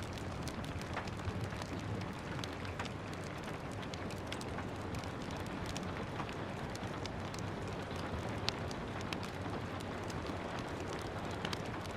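Steady rain with a wood fire crackling over it: frequent small sharp pops scattered throughout, one louder pop past the middle.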